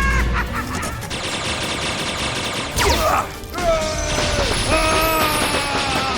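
Cartoon battle sound effects over music: a dense crashing, rattling din. A sharp falling whoosh comes about three seconds in, then two drawn-out, slightly falling tones.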